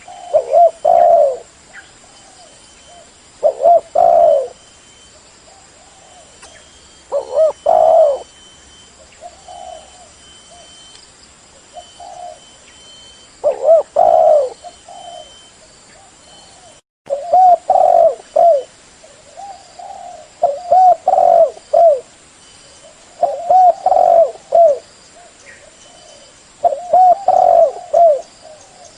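Spotted dove (tekukur/derkuku) cooing loudly: repeated coo phrases of about a second each, every one to three seconds, with a brief cut in the sound about 17 seconds in.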